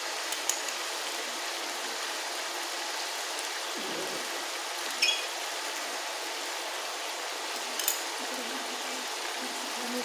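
Potato and tomato masala sizzling steadily in oil in an aluminium pot, with a few short clicks.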